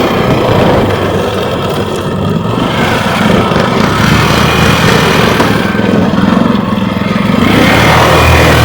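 ATV (quad bike) engine running, its note varying, then growing louder and stronger near the end as it is revved harder.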